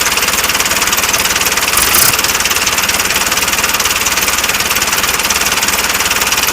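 A small engine running steadily with a fast, even chugging, a little louder for a moment about two seconds in.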